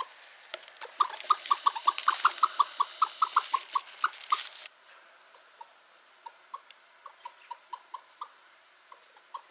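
Chickens clucking: a rapid run of short clucks, about four a second. About halfway through the background hiss drops away suddenly and the clucking carries on more quietly.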